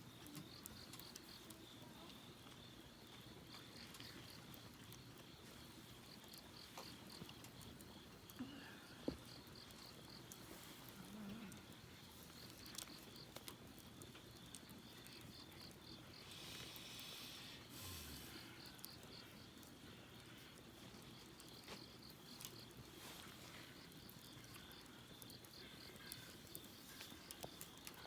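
Faint crickets chirping in steady repeated pulses, with a few scattered short clicks and pops.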